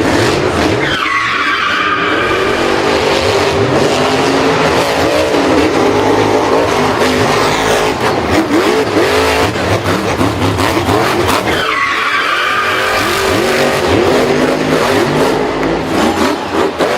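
Racing car engine and tyre-skid sounds, loud and continuous, with the pitch swooping up and down as the engine revs and the tyres squeal.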